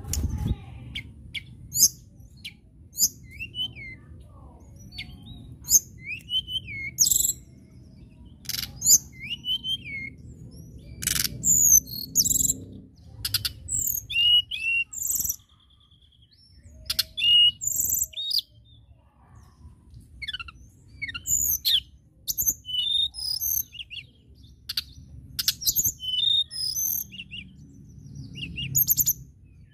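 Blue flycatcher (tledekan) singing: phrases of quick, high whistled notes and short sweeping chirps, broken by brief pauses, over a faint low background rumble.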